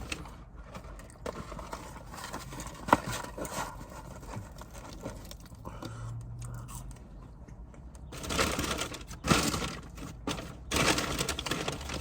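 Close-miked chewing and eating of a chicken sandwich: wet mouth clicks and crunches, with a short hummed "mm" about six seconds in. It gets louder with rustling and crunching in the last few seconds.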